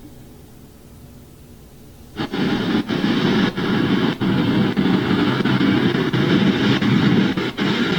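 Generated white noise from a phone app playing over a Bluetooth speaker switches on suddenly about two seconds in: a loud, steady rushing hiss with brief dropouts every second or so. Before it there is only a faint low hiss.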